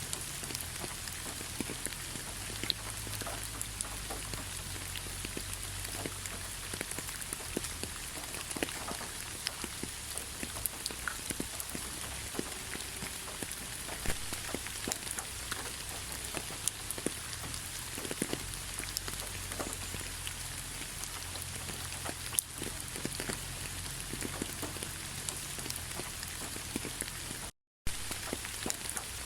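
Steady rain falling on a surface, an even hiss with many individual drops ticking through it. The sound cuts out for a fraction of a second near the end, then resumes.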